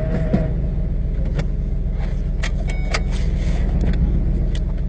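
Vehicle engine idling with a steady low rumble, with a few light clicks and rattles over it.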